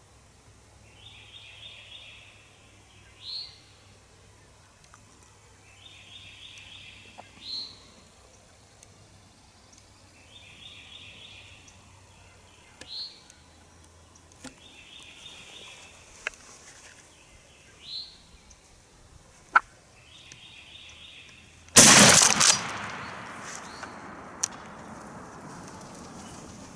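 Eastern wild turkey gobblers gobbling over and over, about every four to five seconds. About 22 seconds in, a single loud blast from a Benelli 20-gauge shotgun rings out and echoes as it fades.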